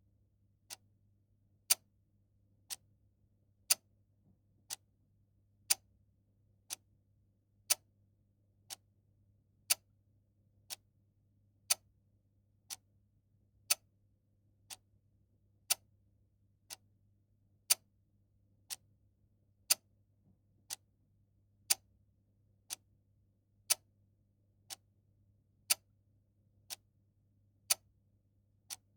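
Mechanical clock ticking steadily at one tick a second, the ticks alternating louder and softer in a tick-tock pattern.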